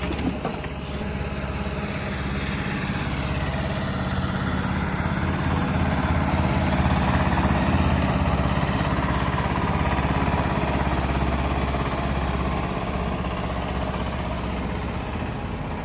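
Diesel engine of a heavy earthmoving machine running steadily, its sound building up a few seconds in, loudest around the middle, then easing off near the end.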